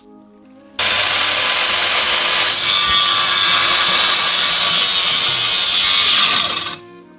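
Power saw cutting through wood, most likely the homemade sliding circular saw's blade. The sound is loud and steady, starts suddenly about a second in and dies away near the end.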